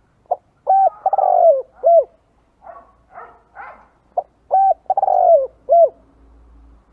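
Spotted dove cooing: two identical song phrases, about four seconds apart. Each phrase is a short note, a held note, a longer rolling note and a falling final note.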